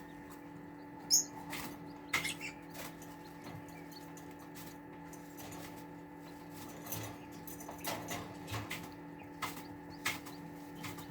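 Small chickens moving about and pecking: scattered light taps, scratches and rustles, one sharper tap about a second in, over a steady low hum.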